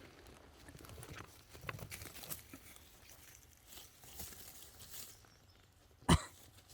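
Faint rustling and light scattered clicks of movement in dry forest leaf litter, with one sharp knock about six seconds in.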